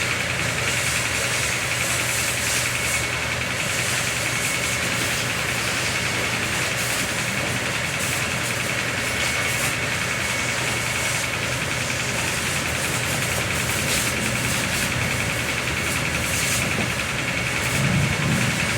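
A motor running steadily with a low hum and a constant high whine, pulsing finely and evenly, swelling slightly near the end.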